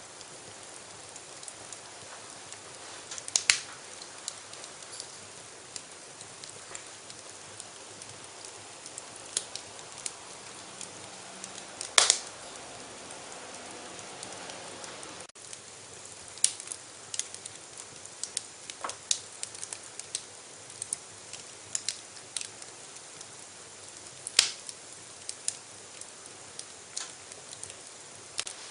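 Wood fire burning in a fireplace: a steady soft hiss with irregular crackles and sharp pops, the loudest pop about twelve seconds in.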